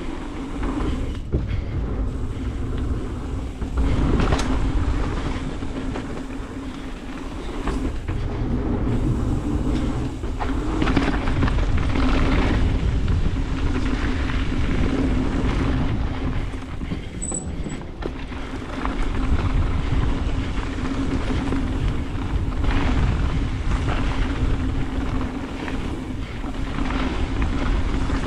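Mountain bike ridden fast down a dirt trail: wind buffeting the microphone, tyres on the ground, and the bike rattling over bumps, with a steady hum throughout and the noise swelling and easing with speed.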